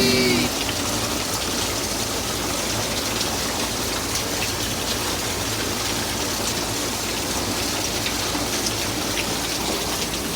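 Steady rain falling, the rain of an approaching hurricane.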